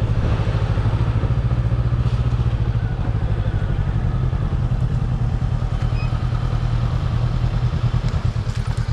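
Motorcycle engine running steadily with an even, rapid exhaust beat.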